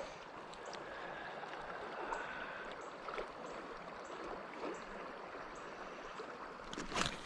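Steady rush of flowing creek water, with a single sharp click about seven seconds in.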